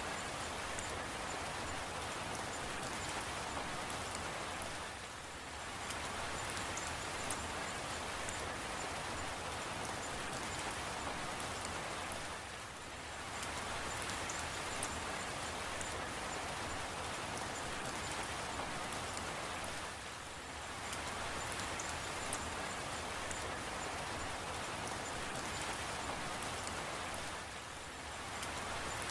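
Steady rain falling, with its level dipping briefly about every seven to eight seconds.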